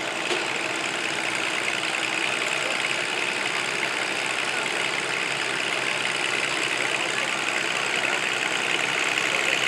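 Tractor engine running steadily, without revving, under a continuous hiss of outdoor noise; a faint hum underneath fades out about two seconds in.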